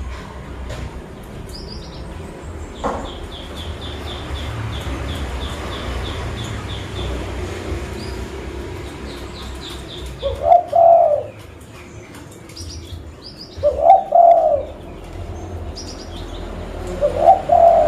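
Zebra dove (perkutut) cooing three times, each call a quick run of low notes lasting about a second. Small birds chirp in a fast, high series through the first half.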